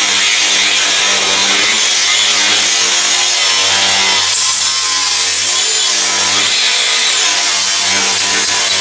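Angle grinder with a thin cutting disc cutting through old welded steel: a loud, continuous grinding rasp whose pitch wavers as the disc is pressed into the cut.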